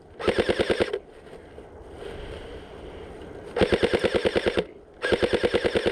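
Airsoft electric rifle firing full-auto in three bursts of about a second each: rapid, evenly spaced shots over the whine of the gearbox, with short pauses between the bursts.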